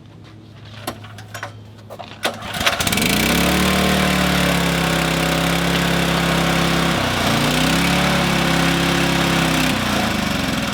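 An engine being test-started: a few clicks, then it catches about three seconds in and runs fast and steady. Its speed dips briefly and recovers near the middle, then settles a little lower near the end.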